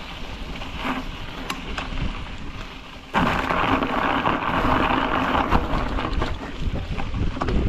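Wind and road noise picked up by a bike-mounted action camera while riding a bicycle, a rumble and hiss with scattered small knocks as the bike jolts; it grows suddenly louder about three seconds in.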